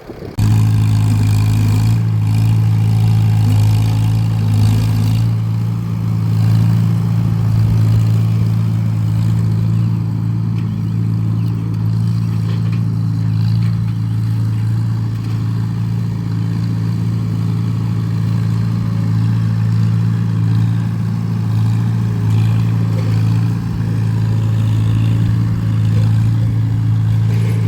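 Farmall 300 tractor engine running steadily under load, pulling a disc harrow. It comes up sharply in loudness about half a second in and then holds an even note.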